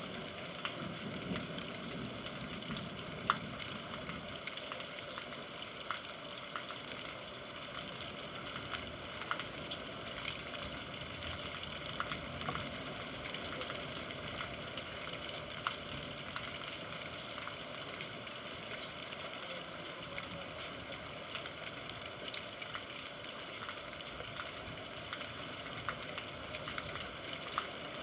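Steady rain hiss with many scattered drop ticks.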